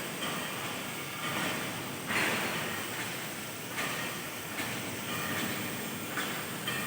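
Automatic plate-cutting machine cutting metal plate: a steady hissing, rushing noise that swells every second or two.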